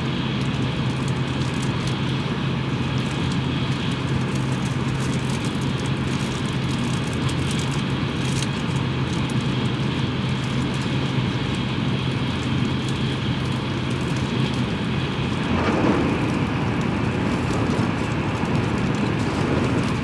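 Tokaido Shinkansen train's running noise heard from inside the passenger car at speed: a steady rush with a low hum that fades near the end, and a brief louder swell about three quarters of the way through.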